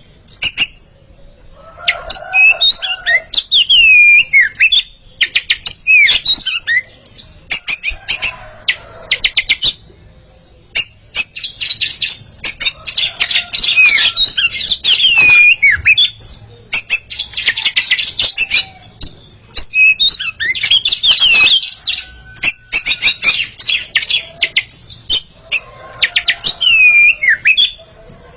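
A pair of oriental magpie-robins (kacer) singing against each other. Their varied song mixes loud whistled slurs with fast rattling trills, in bursts separated by short pauses.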